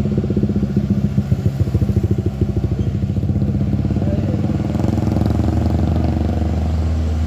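Diesel truck engine labouring on a steep climb, a fast throbbing for the first few seconds, then settling into a steadier, lower drone.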